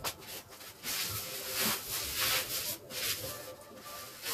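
Rustling and rubbing noises from food being handled, in several short bursts about a second in.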